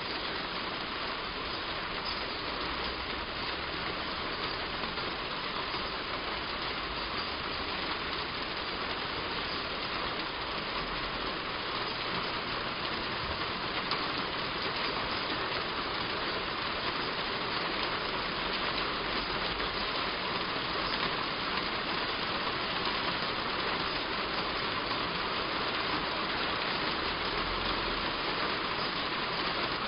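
Heavy rain falling on a roof: a steady, even hiss of drops.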